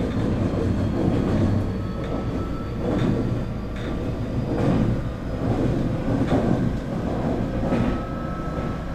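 Nankai 8300 series train running, heard from inside motor car MoHa 8361. There is a steady rumble, steady whine tones from its Toyo Denki TDK-6315-A totally enclosed induction traction motors and Hitachi IGBT VVVF inverter, and a few wheel clicks over rail joints.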